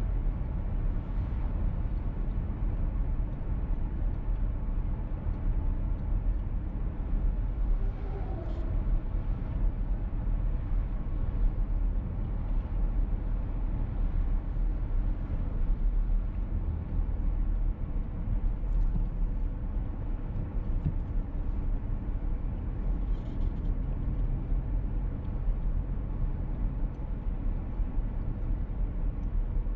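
Inside the cabin of a VW T-Roc petrol car while it is being driven: steady engine and road rumble, with a brief change of pitch about 8 seconds in.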